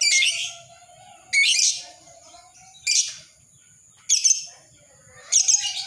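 Lovebird giving loud, harsh, shrill calls, about five of them, one every second and a half or so, with a faint wavering tone in the gaps.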